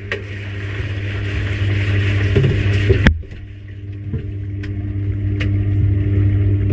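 Washing machine washing a load: a steady motor hum with the swish of water and wet laundry turning in the drum. There is a sharp click about three seconds in, after which the sound drops and slowly builds again.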